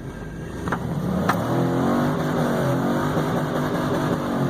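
5.3-litre V8 of a Chevrolet Suburban revving up and held at high revs while the rear wheels spin in snow, rising over the first second and a half, then staying loud with a wavering pitch.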